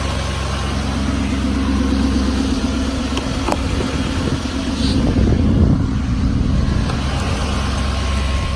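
Duramax V8 turbo-diesel of a 2008 Chevrolet 4500 truck idling steadily, with a single short click about three and a half seconds in and a louder stretch a little past the middle.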